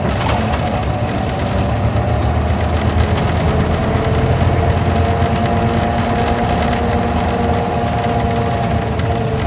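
Isuzu Gala coach's V-type diesel engine running steadily, with road noise, heard from inside the passenger cabin.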